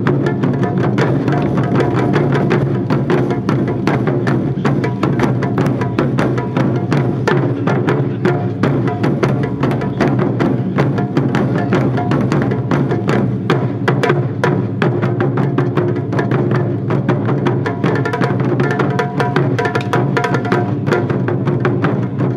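Japanese taiko drum ensemble playing a fast, dense rhythm of continuous drum strikes.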